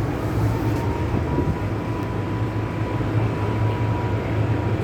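MTR M-Train electric multiple unit running, a steady low rumble with a thin steady whine that comes in about half a second in.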